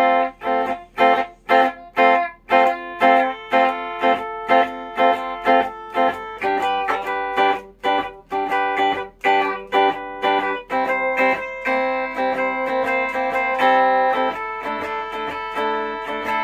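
Flight Centurion solid-body electric tenor ukulele strummed through an amplifier on a super raunchy, overdriven setting. It plays short chopped chords about two a second, then longer ringing chords for the last five seconds or so.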